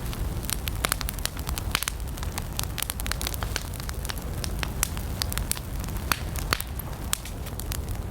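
Wood campfire burning, with frequent sharp, irregular crackles and pops over a steady low rumble of the flames.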